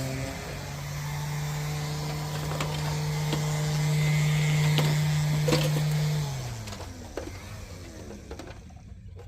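A small electric motor, likely a power tool, running at a steady speed, then spinning down and stopping about six seconds in, with a few sharp clicks along the way.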